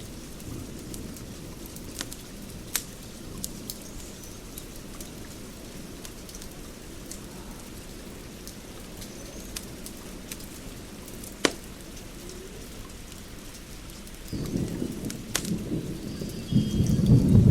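Wood fire burning with a steady low roar and scattered sharp crackles and pops, the roar swelling louder near the end.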